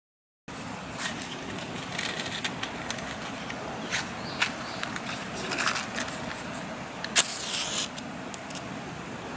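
Irregular clicks and light knocks over a steady background hiss, with one sharp, loud click about seven seconds in.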